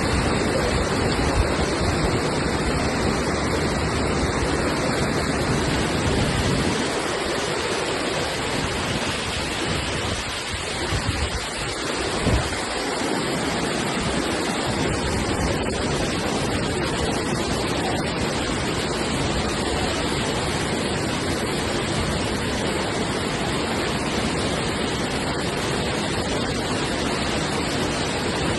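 Floodwater rushing in a swollen stream, a loud steady roar of water.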